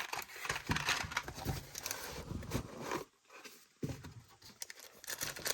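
Elite Trainer Box contents being handled: plastic and cardboard packaging rustling with a run of small clicks and knocks, pausing briefly about three seconds in.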